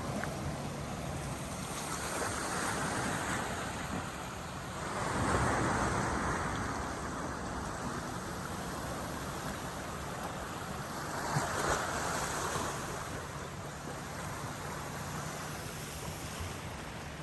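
Ocean surf: waves breaking and washing in, swelling louder about three times, with wind on the microphone.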